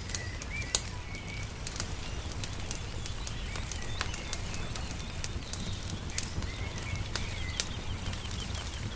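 Wood fire crackling with frequent sharp pops, the loudest about a second in, over a low steady rumble, with small birds chirping in the background.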